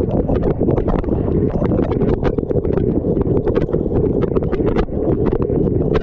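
Dishwasher wash cycle heard from inside the machine: a steady rush of spraying water with rapid, irregular splats and clicks of jets hitting the camera and the dishwasher's interior.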